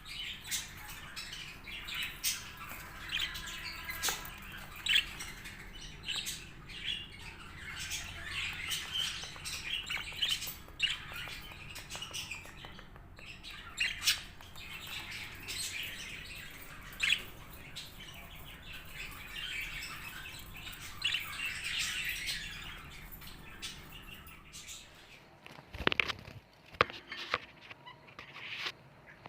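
Budgerigars chirping and chattering continuously in many short, overlapping calls, with scattered sharp clicks and a cluster of clicks about 26 seconds in. A steady low hum runs underneath and fades out near the end.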